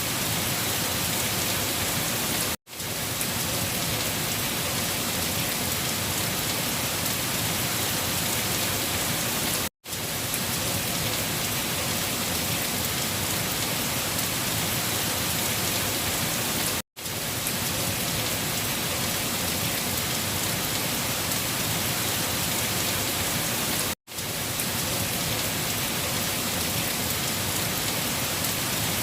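Steady heavy rain hiss. It cuts to silence for an instant four times, at even intervals of about seven seconds, where a short rain recording loops.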